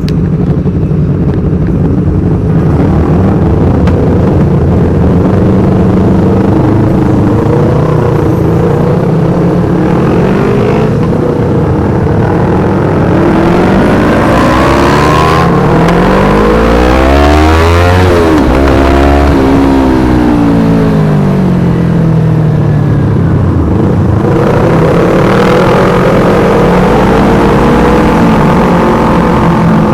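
Yamaha R25 parallel-twin engine running through an aftermarket Black Devils exhaust. It holds a steady note, swells in pitch and level around the middle, then settles back to a steady run.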